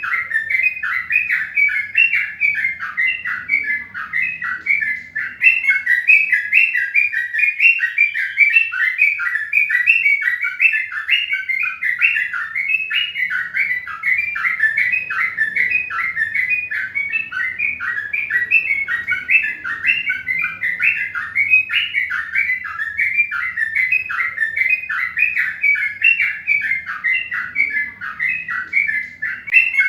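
Birds chirping without a break, short high chirps coming about three times a second.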